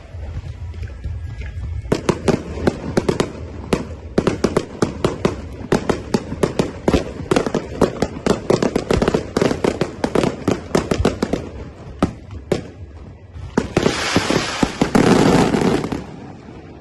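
Fireworks going off: a rapid run of sharp bangs, several a second, for about ten seconds, then a dense crackling burst near the end.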